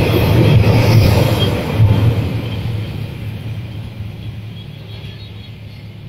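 Passenger train's coaches rumbling past on the rails; after about two seconds the rumble fades steadily as the train pulls away.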